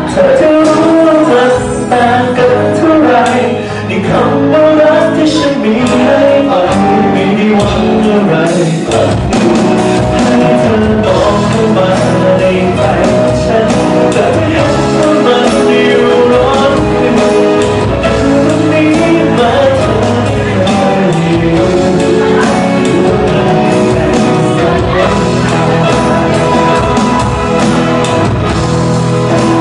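Live band playing a pop-rock song, with a male singer's vocal over guitar and drums.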